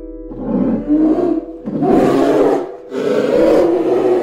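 A big cat roaring: three loud, rough, throaty calls of about a second each, one after another, over faint background music.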